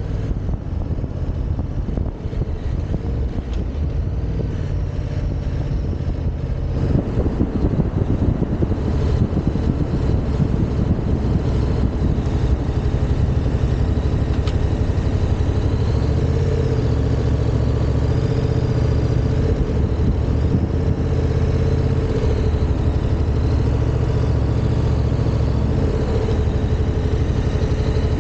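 Yamaha XSR700's parallel-twin engine running steadily, louder from about seven seconds in.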